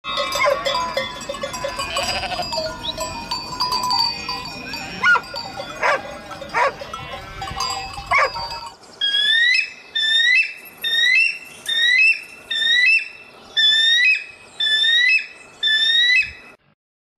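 A flock of sheep and goats bleating over one another, with livestock bells ringing. After about nine seconds it changes to a kestrel calling: about a dozen shrill calls, each rising and then falling, about one and a half a second, which stop suddenly near the end.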